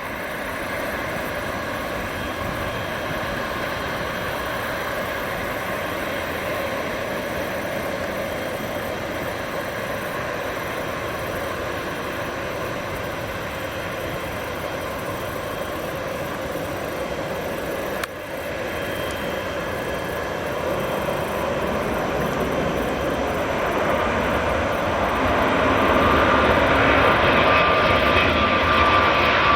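Airbus A350's Rolls-Royce Trent XWB jet engines running with a steady roar and a few high whining tones. The sound grows louder over the last several seconds as the airliner comes closer.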